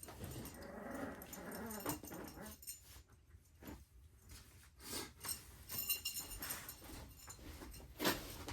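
A puppy whining and growling in play, a wavering pitched cry in the first couple of seconds, followed by a few short knocks.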